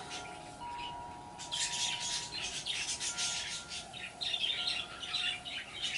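Birds squawking and chirping in short scratchy bursts, with a lull about a second in. A few steady ringing tones at different pitches sound underneath.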